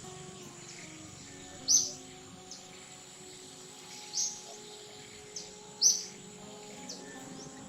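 A short, sharp high-pitched chirp three times, about every two seconds, over soft sustained background music.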